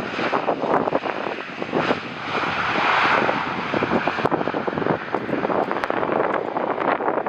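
Jet airliner on landing approach passing the spotting position, its engine noise swelling to a peak about three seconds in.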